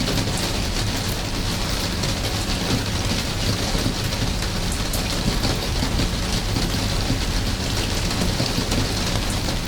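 Steady rain falling, a dense even hiss with many single drops ticking through it and a low rumble underneath.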